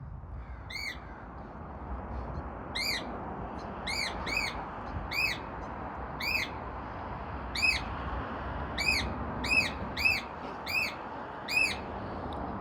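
Cockatiel calling: about a dozen short, shrill calls that rise and fall in pitch, roughly one a second at uneven spacing.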